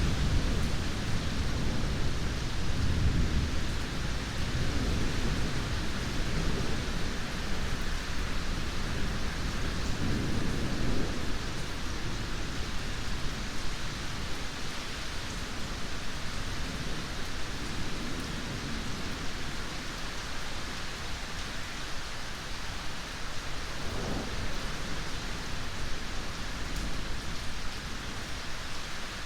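Steady heavy rain with rolling thunder rumbling low in the first few seconds and again about ten seconds in, then dying away to rain alone.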